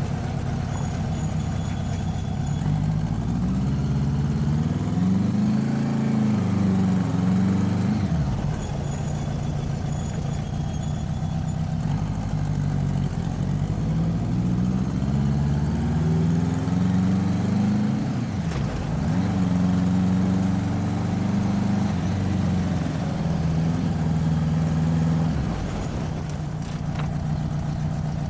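Motorcycle engine pulling under way: its pitch climbs, drops sharply at a gear change about 8 seconds in and again about 19 seconds in, then holds steady and eases off near the end.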